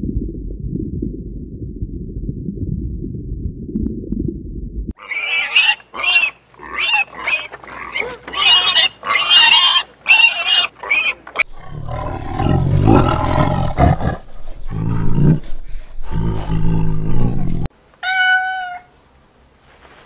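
A low rumble for the first five seconds, then domestic pigs squealing in a run of short, high, wavering bursts, followed by deeper, louder pig calls. Near the end a kitten gives one short meow.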